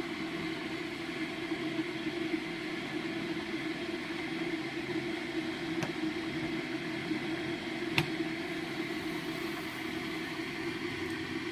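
Electric heater running with a steady hum and whir, with a single sharp click about eight seconds in.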